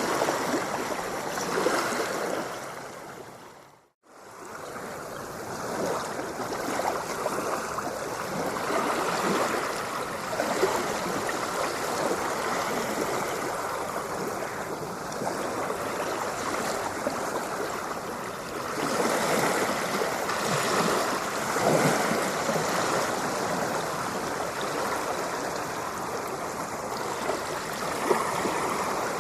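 Ocean surf: a steady wash of waves with surges that rise and fall. About four seconds in the sound fades briefly to near silence, then comes back.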